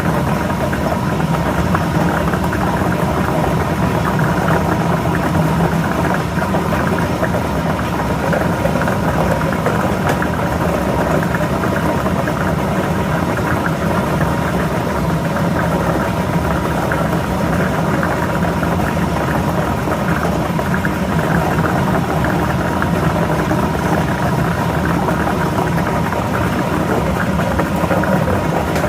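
Lottery ball machine running steadily, its motor humming as the balls churn inside.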